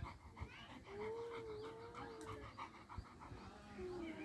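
A dog panting rapidly, about five breaths a second, with one long whine running for about a second and a half from about a second in.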